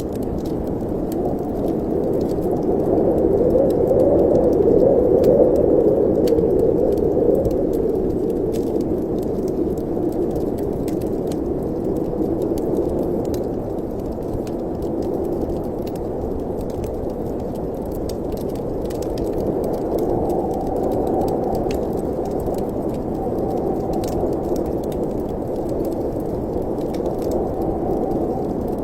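Wind blowing with a steady low whoosh that swells for a few seconds early on, over the light crackle and snaps of a wood fire in a fireplace.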